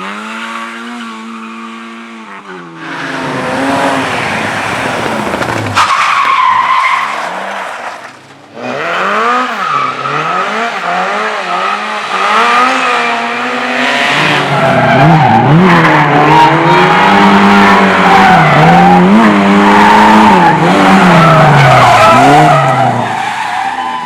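Race car engine revving hard up and down while its tyres skid and squeal. The engine drops off briefly about eight seconds in, then revs again repeatedly, loudest near the end.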